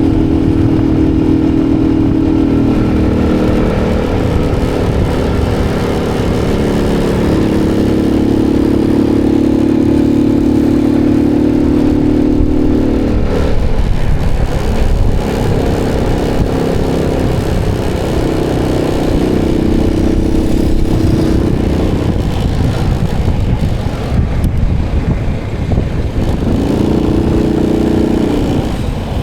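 Motorbike engine running while riding, its pitch stepping up and down with the throttle and fading back at times, over wind rumble on the action camera's microphone.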